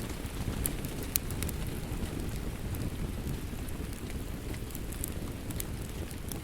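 Wood fire crackling, with scattered sharp pops, over a steady low rush of rain.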